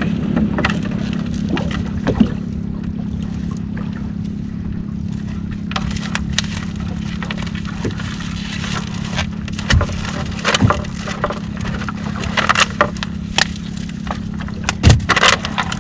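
Small fishing boat's engine running steadily, with scattered knocks and clatter as a crab gillnet is hauled aboard over the side; the knocks come thicker in the second half.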